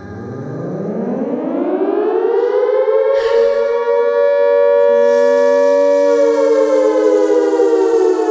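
Air-raid siren winding up from a low growl to a steady wail over about two seconds, then holding its pitch, dipping slightly near the end.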